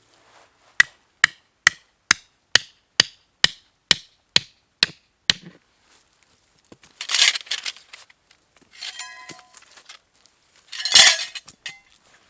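A run of about a dozen sharp, evenly paced hammer-like blows, about two a second, lasting some five seconds. These are followed by a brief clatter, a light metallic rattle, and a louder clatter near the end.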